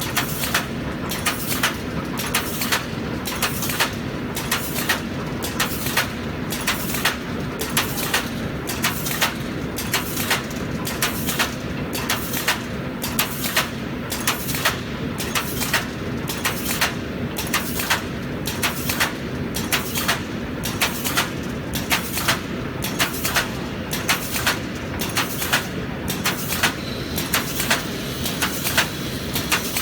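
Automatic wire mesh panel welding machine running continuously: a sharp metallic clack about every three-quarters of a second over a steady mechanical hum, as line wires drop from the hopper and feed toward the spot welder.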